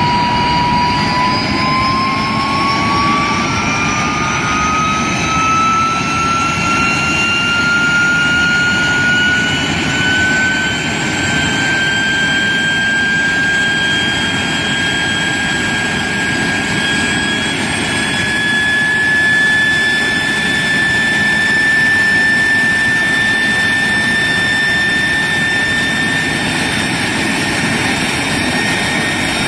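de Havilland Vampire's Goblin turbojet running on the ground: a steady roar under a loud turbine whine that climbs slowly in pitch as the engine spools up, then settles at a higher steady pitch.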